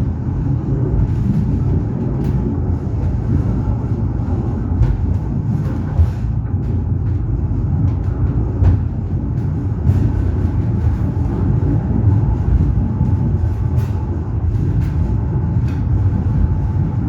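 Train running, a steady low rumble with occasional faint clicks.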